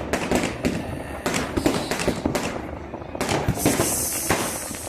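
New Year fireworks and firecrackers going off: a fast, irregular string of sharp bangs and cracks, with a high fizzing hiss rising over them in the second half.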